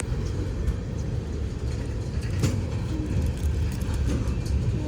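Freight train cars rolling past: a steady low rumble of wheels on rail with a few sharp clicks.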